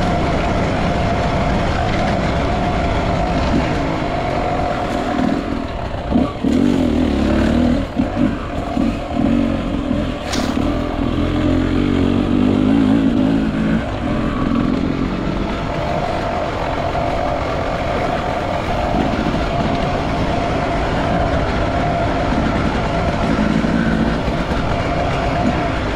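Enduro motorcycle engine running as it is ridden off-road, the throttle opening and closing unevenly. There is a single sharp knock about ten seconds in.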